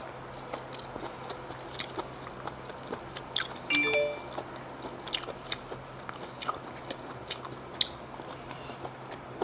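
A person chewing and biting seasoned shellfish close to the microphone, with many sharp, wet mouth clicks and smacks spread irregularly through the stretch. A brief pitched sound comes about four seconds in.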